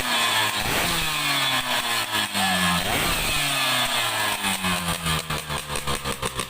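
Yamaha F1ZR two-stroke motorcycle engine, bored to 116 cc, being revved in repeated blips, its pitch falling after each one. In the second half the note breaks into a quicker, uneven pulsing.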